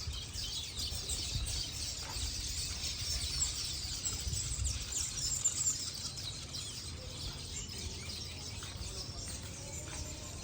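Many small birds chirping and calling in quick, overlapping short notes, over a steady low rumble.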